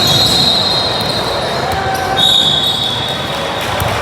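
Youth basketball game in a gym: ball bouncing on the court amid the hall's din and background voices. There are two high, drawn-out squeaks, one at the start and one about two seconds in.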